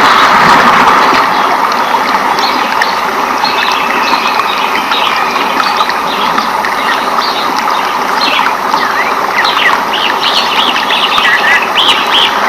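Rainforest ambience: a steady hiss of rain with birds chirping over it, the chirps coming thicker in the second half.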